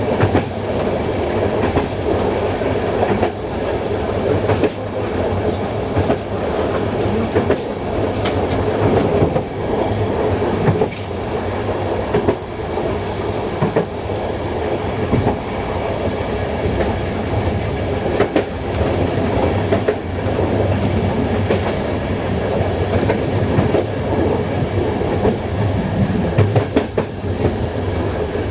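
Passenger train running on the track at speed: a steady rolling rumble of wheels on rail, with sharp clicks every second or two as the wheels pass over rail joints and points.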